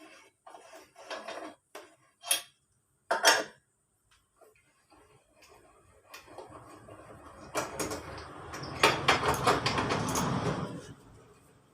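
Metal hand tools and scooter engine parts clinking while the engine is being taken apart: a few separate sharp clinks, then several seconds of dense metallic rattling that stops near the end.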